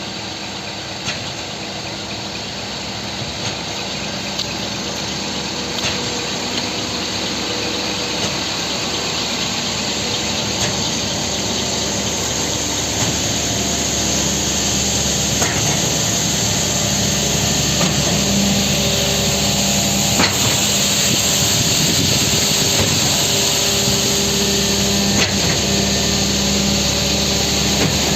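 Scania P 420 concrete mixer truck running: a steady mechanical hum and whine that grows slowly louder, with a faint click every few seconds.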